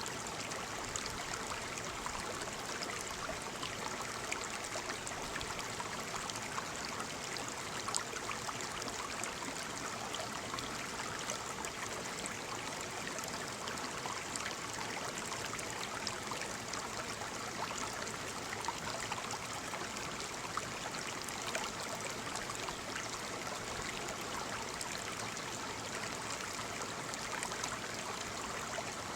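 Small waterfall splashing steadily, a continuous rush of falling water with fine splashes and droplets throughout.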